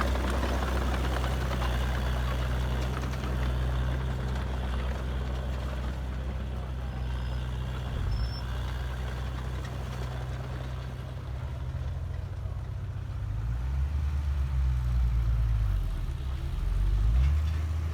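Heavy diesel engine of earthmoving machinery running steadily at low revs, with its pitch rising and falling several times in the last few seconds as it is revved.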